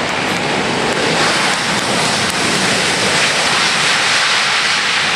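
Airbus A320 jet engines passing close by: a loud, steady rushing noise with no clear pitch, which grows slightly louder about a second in.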